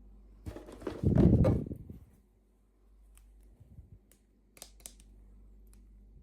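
Hands handling toy packaging: a loud rustling burst lasting about a second, followed by a few light clicks and taps.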